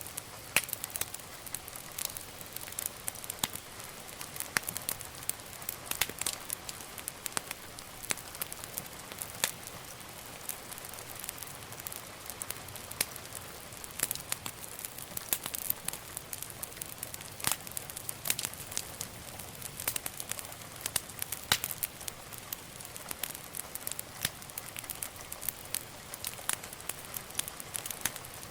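Wood fire burning in a fireplace: a steady soft hiss with irregular sharp crackles and pops, several a second.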